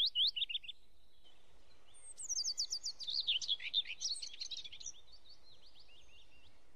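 Small birds chirping in quick, high, up-and-down calls: a short spell at the start, then a dense flurry from about two to five seconds in that thins out to a few stragglers.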